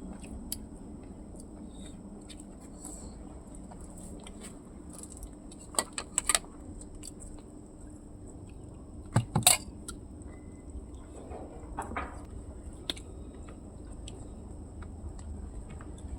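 Tableware clinking during a meal: two clusters of sharp clinks about six and nine seconds in and a softer one near twelve, over a low steady background hum and a faint high whine.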